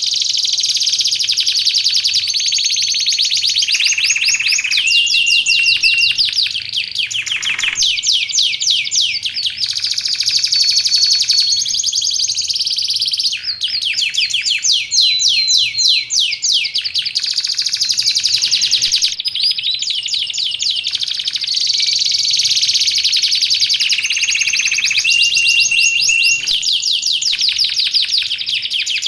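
Canary singing a long unbroken song. Runs of rapid trills and repeated chirps alternate with short steady whistled notes.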